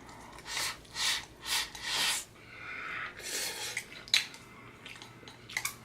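A person eating very spicy noodles: a run of four short, airy mouth sounds about half a second apart, then a longer one, with a few light utensil clicks near the end.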